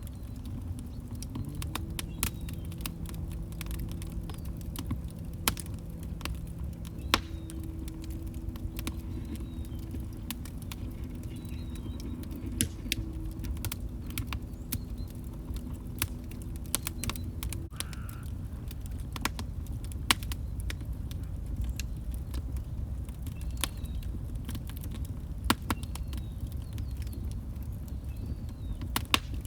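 Log fire burning in a fireplace: a low steady rumble with irregular sharp crackles and pops. A low steady hum sounds underneath for the first half and stops about 18 seconds in.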